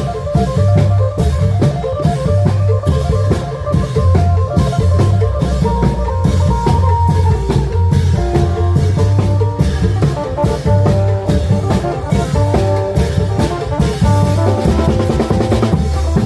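Isan klong yao long-drum ensemble playing live: a steady, driving drum beat under a melody on the phin lute, in a lively procession rhythm.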